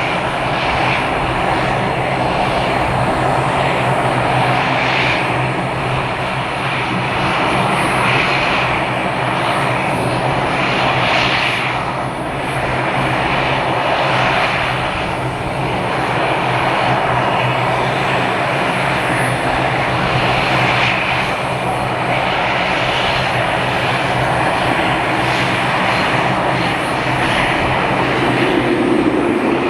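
Airliner engines running steadily, a continuous loud drone with a steady low hum.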